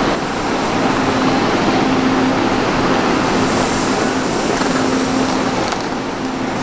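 A train moving in the station: a steady rushing noise with a low hum that comes and goes.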